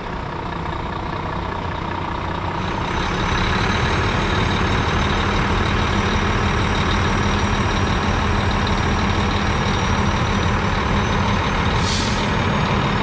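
Cessna 172's piston engine running, heard from inside the cabin, with a thin steady high whine over it. The engine gets louder about three seconds in and then holds steady.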